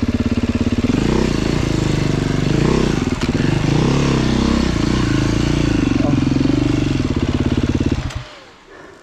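Dirt bike engine chugging at low revs with short rises and falls in pitch as the throttle is worked, then stopping suddenly near the end.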